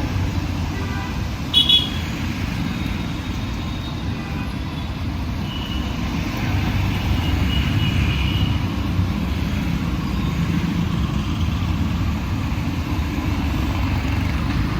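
Steady city road traffic: the low rumble of passing cars, buses and motorbikes, with a short, loud horn honk about one and a half seconds in and fainter horns further off around the middle.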